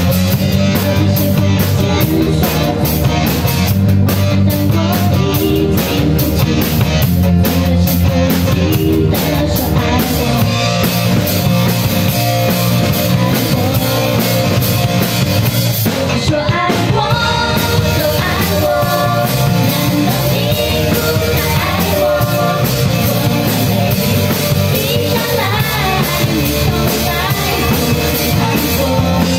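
A rock-style song with drum kit and guitar, performed by a band. A voice sings over it from about halfway through.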